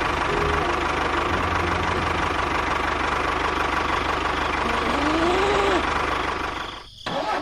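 Small engine of a homemade mini tractor running steadily; the sound drops away briefly near the end, then picks up again.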